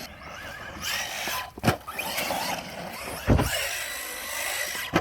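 Brushless electric RC monster truck running hard: the motor whine rises and falls over a steady rush of tyre and ground noise, with two sharp knocks, about a second and a half and three seconds in.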